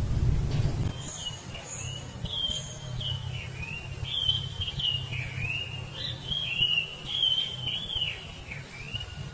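A songbird singing a long, unbroken run of quick slurred whistled notes, starting about a second in and going on until near the end. A low rumble is heard under the first second.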